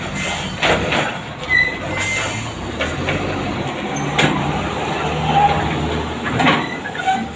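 Heavy vehicle running: a steady low engine drone with occasional knocks and rattles.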